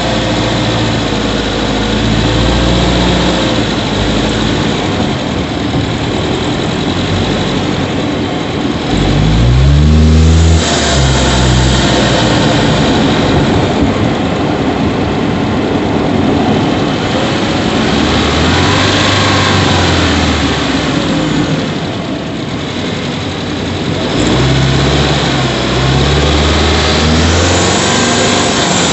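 Subaru Levorg 1.6GT-S turbocharged flat-four heard from inside the engine bay while driving. Its engine speed climbs about ten seconds in, eases off past twenty seconds, and picks up again near the end.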